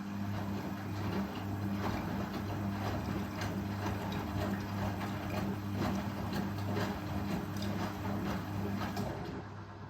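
Indesit Ecosense washing machine's drum motor turning the drum, with irregular clicks and knocks from the load, over a steady low hum. The drum motor stops about nine seconds in, leaving only the hum.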